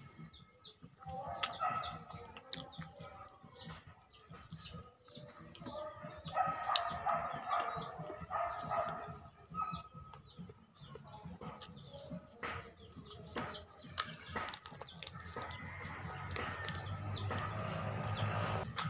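Mouth sounds of someone chewing and smacking on chicken feet and rice, coming in several stretches. Small birds chirp over it, short high chirps about once a second.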